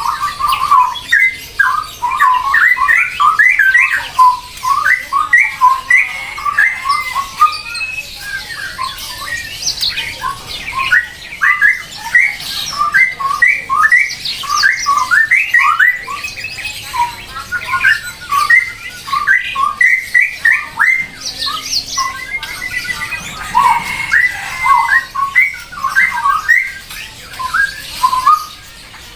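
Birds squawking and chattering in a dense, rapid stream of short calls, with brief lulls.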